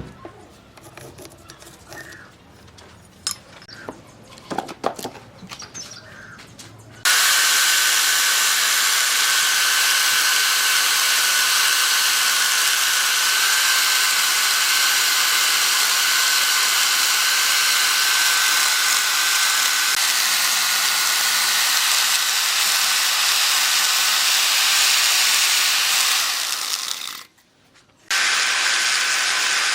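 Light knocks and handling clicks, then an electric power tool starting abruptly about seven seconds in and running steadily on wood with a high whine. It cuts off for about a second near the end and starts again.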